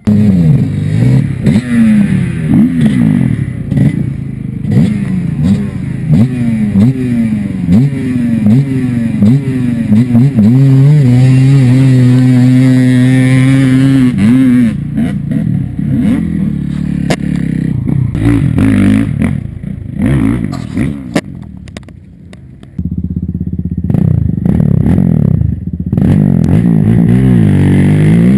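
Small off-road vehicle engine revving hard under load, its pitch rising and falling in quick repeated surges, then held high for a few seconds around the middle. It drops away briefly near the end before running loud again.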